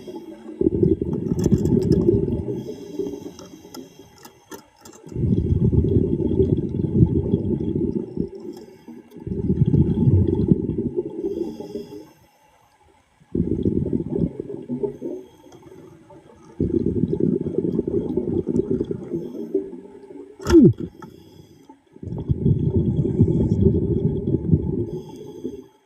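A diver's exhaled breath bubbling out underwater: six rumbling bursts of bubbles, each lasting two to four seconds, with short pauses for inhaling between them. A single sharp knock about twenty seconds in.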